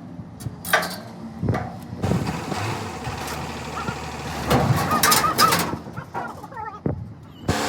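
Several sharp metal knocks, then a steady noisy clatter over a faint running engine hum.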